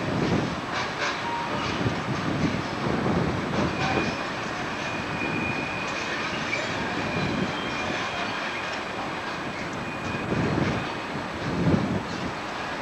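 A train rolling on the rails, wheels thudding irregularly over rail joints, with a faint thin squeal from the wheels for a few seconds midway.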